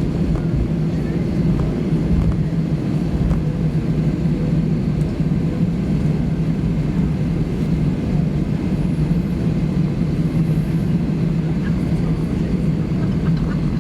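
Airbus A320 cabin noise on the ground after landing: a steady low hum and rumble from the aircraft that does not change.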